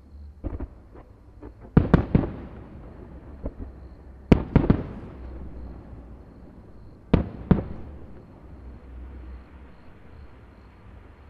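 Aerial firework shells bursting in a display: a few smaller cracks early, a loud cluster of bangs about two seconds in, another around four and a half seconds, and a pair near seven seconds. A steady low rumble runs beneath.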